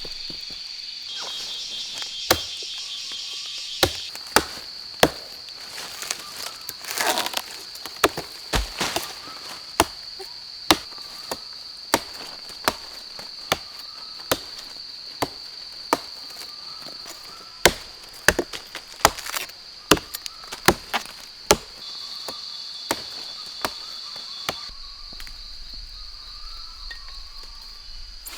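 A run of sharp, single chopping strikes, irregularly spaced and most frequent late in the middle, with a brief rustle about seven seconds in. A steady high insect drone runs underneath.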